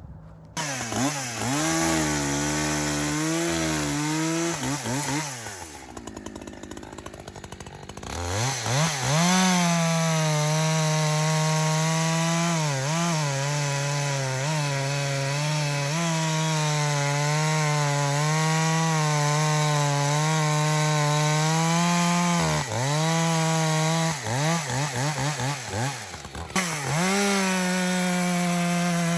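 Echo CS-620 two-stroke chainsaw revving, then dropping to a lower idle for a couple of seconds, then held at high revs, steady under load while bucking a log. A few brief dips and blips in revs come about two-thirds of the way through before it settles back into the cut.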